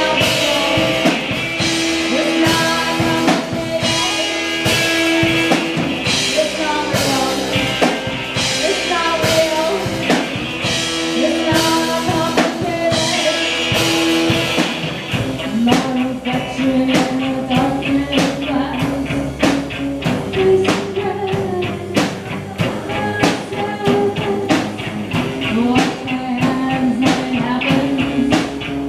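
Live rock band playing an instrumental passage with drum kit, guitar and bass; the instruments shift to a new part about halfway through.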